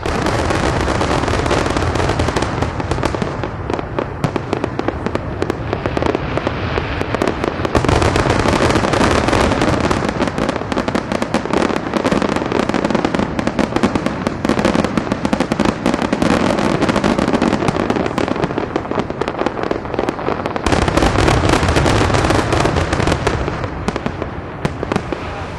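A long, dense volley of explosive bangs and crackling with a low rumble underneath. The low rumble swells again about twenty seconds in, and everything tails off near the end.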